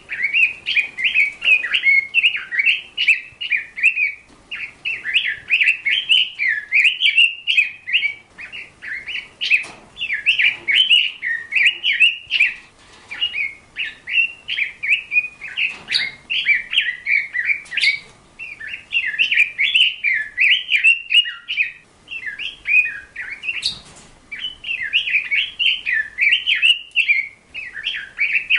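A songbird singing a long, nearly unbroken twittering warble of quick rising and falling notes, with a few sharp ticks now and then.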